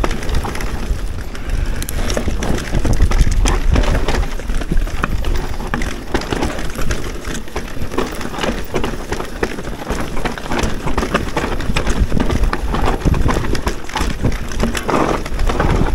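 Electric mountain bike riding down a rough trail: tyres rolling over rock and dirt, with many sharp clicks and knocks as the bike rattles over bumps. Wind buffets the microphone throughout.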